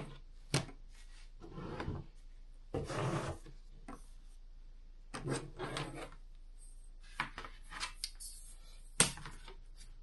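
Marking and drawing strokes rubbing across a cardboard sheet as a layout is sketched, in several short scratchy passes with light handling knocks and a sharp click about nine seconds in.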